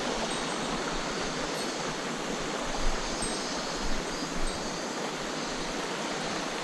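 Mountain stream water rushing steadily, with a few brief knocks about three and four seconds in.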